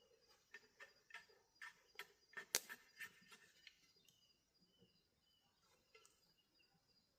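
Faint snapping and crackling of dry corn plants being handled in a hand harvest: about a dozen snaps in the first three and a half seconds, one louder than the rest. A bird chirps faintly in the background.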